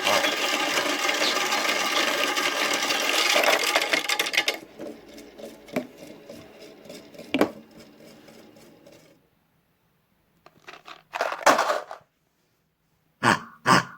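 Toy washing machine running with objects rattling and clattering in its drum, stopping about four and a half seconds in; a few faint clicks follow, then two short sounds near the end.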